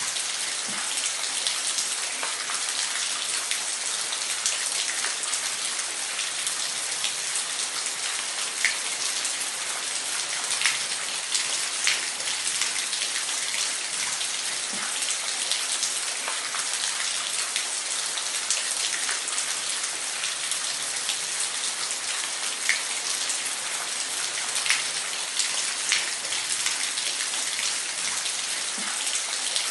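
Steady hiss of falling water with many small drops splashing at irregular moments throughout.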